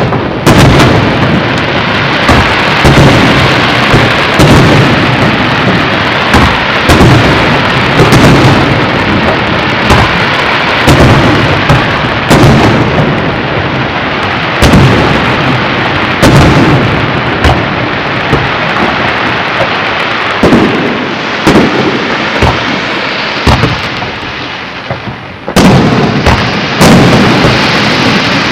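Aerial fireworks display: shells bursting in rapid, near-continuous succession, deep booms and sharp bangs overlapping with crackle. The barrage dips briefly near the end, then comes back at full strength with a sudden bang.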